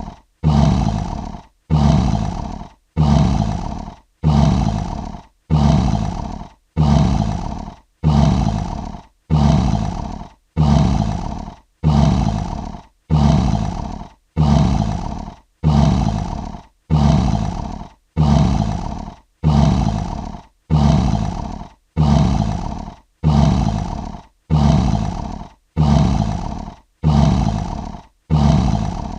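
A lion roaring: the same short call of about a second, starting loud and fading, repeats at even intervals of about a second and a quarter, one recording looped over and over.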